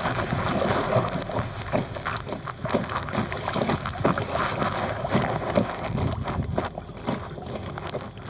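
Kayak paddling: the paddle blades dipping and splashing in the lake water, with drips and many small irregular knocks and splashes.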